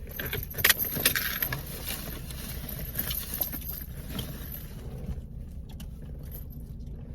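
Rustling and light clattering of belongings being handled and packed into a bag, busiest in the first few seconds, over a steady low rumble.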